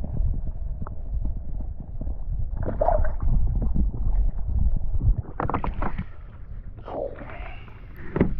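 Low rumble on the microphone with scattered knocks and clatter from handling on a kayak.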